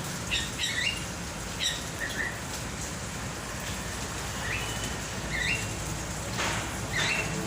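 Bird calling in short whistled notes that bend up and down, several times, over a steady hiss. Near the end come a couple of brief rushes of wing flapping.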